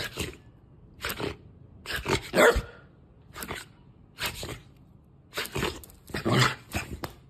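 A dog giving a run of short, breathy barks and huffs, about one a second, several coming in quick pairs.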